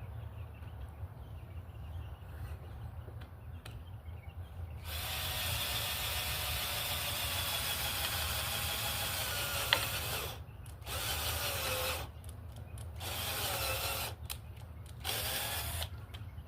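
Battery-powered drill running in one long burst of about five seconds, its motor pitch shifting as it works, then three shorter bursts near the end.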